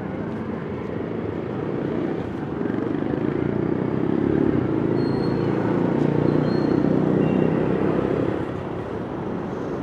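Street traffic noise with a vehicle going past: the noise swells from about three seconds in and dies back down near the end.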